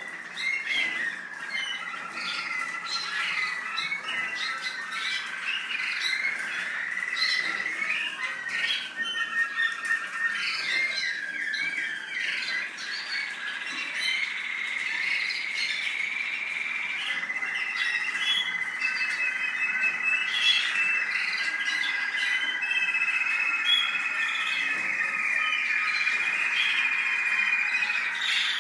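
American Singer canary singing a continuous song: rapid trills and rolls in the first half, then long held whistled notes in the second half.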